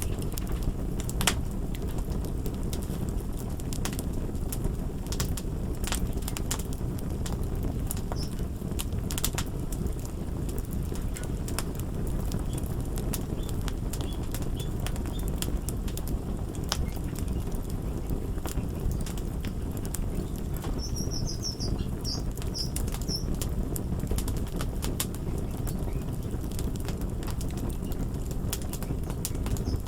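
Crackling wood fire: a steady low rumble of flames with frequent sharp crackles and pops. A brief high twittering comes about two-thirds of the way in.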